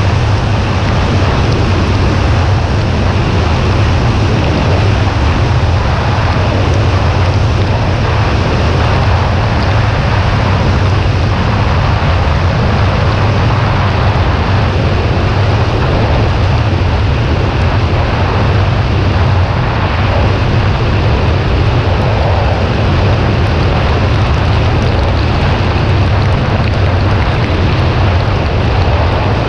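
Steady rush of wind over the microphone while riding a Kawasaki Ninja 400 motorcycle, heaviest in a deep rumble, with the bike running underneath at an even speed.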